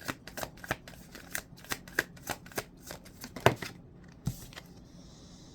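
Tarot deck being shuffled by hand, the cards slapping together in sharp clicks about three times a second, followed by a single thump about four seconds in.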